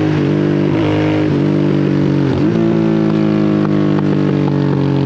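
Harley-Davidson Sportster S's Revolution Max 1250T V-twin running through a slip-on exhaust. Its pitch dips briefly a few times in the first two and a half seconds, then holds steady.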